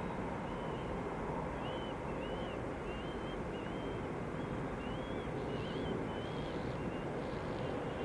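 A small bird singing a run of short chirps and warbles, over a steady background rumble.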